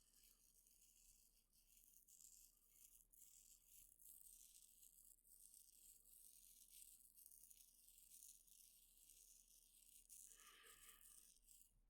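Faint, continuous ASMR scratching on the microphone, standing in for head and ear scratches: a soft high-pitched rustle of many small irregular strokes.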